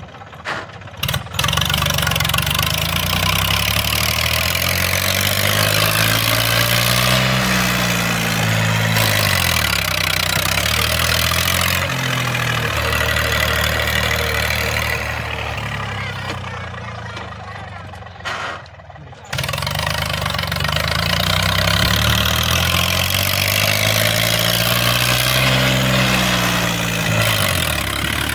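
Eicher 333 tractor's diesel engine revving up and falling back, twice, with a brief cut-out about two-thirds of the way through.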